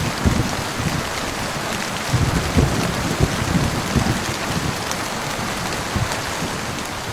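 Heavy rain falling steadily, with frequent irregular low thuds mixed into the patter.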